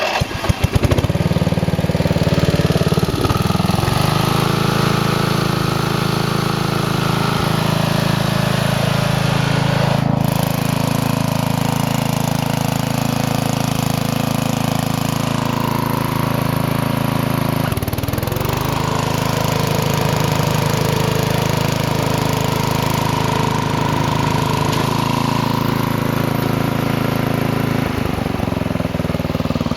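Sutech Stealth 33-inch walk-behind lawn mower's engine catching at the start and then running steadily, its note shifting briefly a few times.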